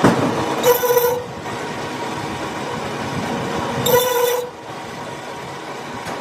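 Machinery running with a steady noise, and a short high squeal about a second in and again about four seconds in, repeating roughly every three seconds.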